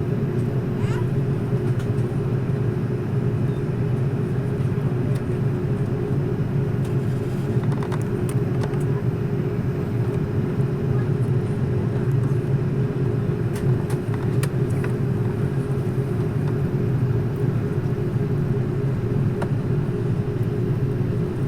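Steady cabin noise inside an Airbus A330-300 airliner: the jet engines and airflow make a constant low hum with a droning band a little higher up, at an unchanging level, with a few faint clicks.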